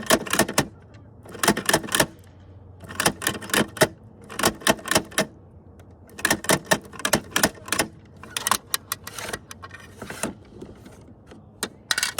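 Toy garbage trucks clicking and clattering in short bursts of rapid clicks, one burst about every second and a half.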